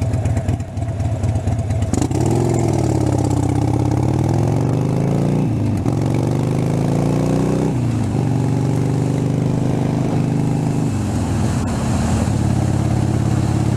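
Harley-Davidson Sportster V-twin engine pulling away, its pitch climbing and dropping sharply twice at upshifts, then holding steady before falling as the throttle is eased, over wind rush.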